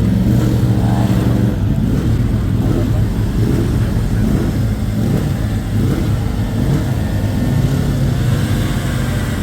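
Racing motorcycle engines running at low speed, their pitch rising and falling with light revs, with a constant engine hum underneath.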